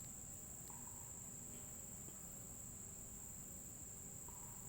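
Crickets trilling in a steady, continuous high-pitched chorus, with a faint low background rumble beneath.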